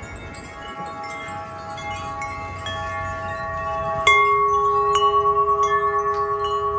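Wind chimes ringing in a gust, with several notes struck at scattered moments and overlapping as they ring on. About four seconds in, a louder strike adds a low note that keeps ringing with a slow wavering.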